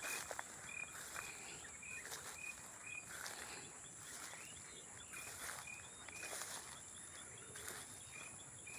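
Night-time nature ambience: a steady high insect drone with a short chirping call repeated about twice a second in runs with brief pauses, and a few faint clicks.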